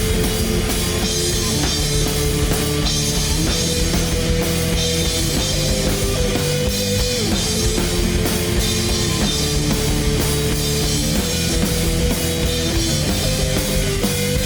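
Rock band playing: heavily distorted electric guitars and bass over a driving drum kit beat.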